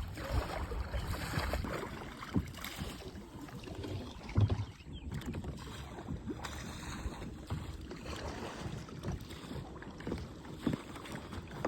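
Water sloshing and splashing around a kayak, with wind on the microphone and small irregular knocks. There is one louder low thump about four and a half seconds in.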